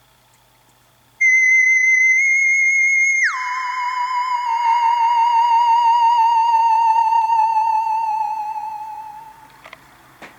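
An iOS 7 preset alert sound from an iPod touch speaker: a high, whistle-like electronic tone that holds for about two seconds, drops suddenly by about an octave, then wavers as it slowly sinks in pitch and fades out. Two faint clicks follow near the end.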